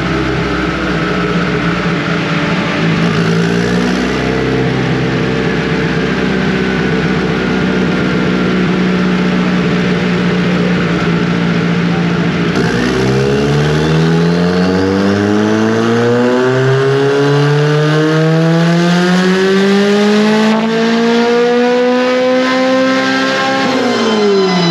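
Turbocharged Honda B18 four-cylinder on a chassis dyno: it holds steady revs, then about halfway through accelerates in one long, steady climb in pitch under load, with the revs dropping sharply at the very end as the pull finishes.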